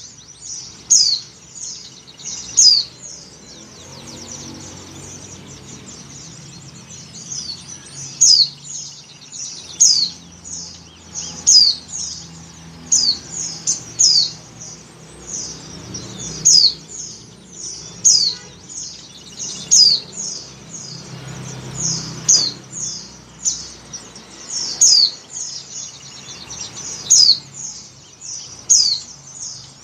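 Pleci (white-eye) calls: short, high notes that slide downward, often in pairs, repeated every second or two, with a quieter pause of a few seconds near the start. The calls are those of a female in breeding condition calling to males. A faint low hum runs underneath.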